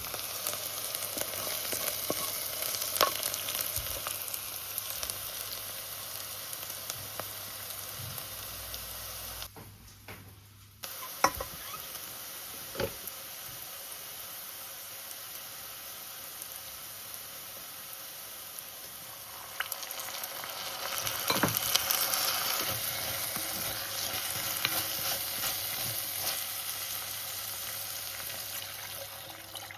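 Beef roulades frying in a pan: a steady sizzle with scattered crackles. It drops out briefly about ten seconds in and grows louder from about twenty seconds in.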